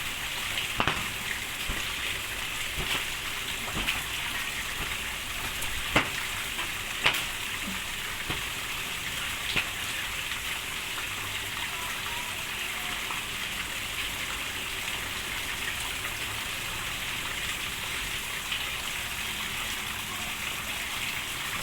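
Steady rain falling, with a handful of sharper drop impacts standing out now and then.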